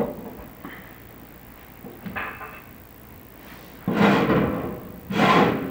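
Chimney inspection camera scraping and knocking against the inside of a prefab fireplace's metal flue as it is lowered for the down scan. There is light rubbing early on, then two louder scrapes about a second apart near the end.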